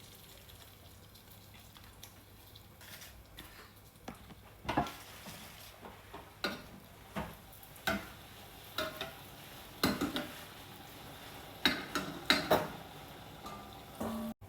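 Light, irregular clicks and knocks, about a dozen, starting about four seconds in, as sugar-coated homemade doughnuts are handled and broken open against a dish.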